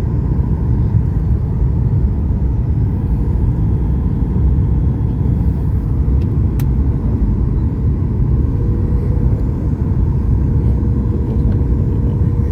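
Cabin noise of a Boeing 737 MAX 8 descending on approach: a steady low rumble of the engines and rushing air, with a faint steady hum.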